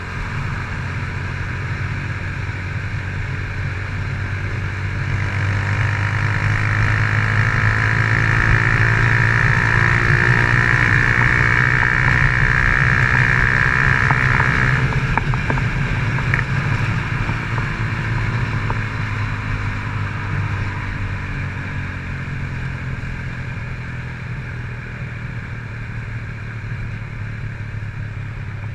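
2007 Honda CG Titan 150's single-cylinder four-stroke engine running steadily while riding, through an aftermarket Fortuna exhaust. It grows louder toward the middle, where a high steady tone joins it and cuts off abruptly about halfway through, then eases off again.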